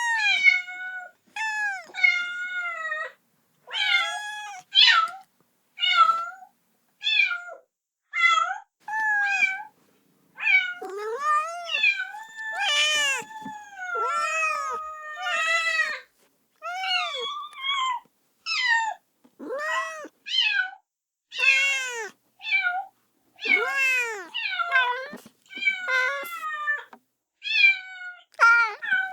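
Kitten meowing over and over, calling for its mother: a string of short, high-pitched cries, one or two a second, with no pauses longer than a moment.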